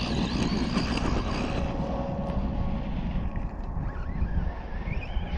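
Traxxas Rustler RC truck's electric motor whining as it drives over dirt, with wind buffeting the microphone; the motor's whine rises again near the end as it speeds up.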